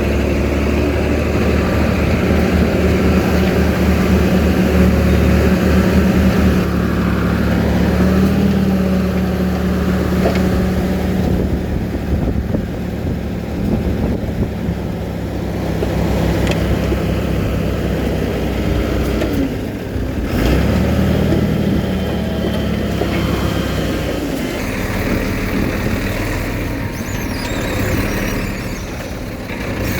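Diesel engine of heavy earthmoving machinery running steadily under changing load. Its note steps up about eight seconds in and dips briefly around twenty seconds.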